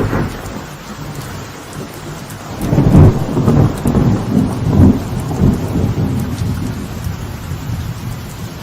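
Steady light rain falling on a veranda, with thunder. A sharp crack comes right at the start, then a deep rolling rumble builds about two and a half seconds in, surges a few times and slowly fades.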